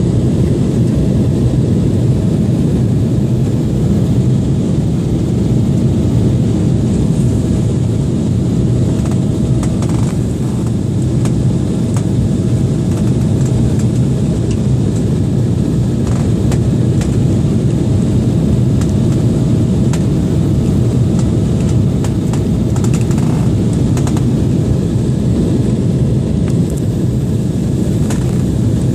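Passenger airliner during its landing approach: a loud, steady low rumble of engines and airflow with a constant hum running through it.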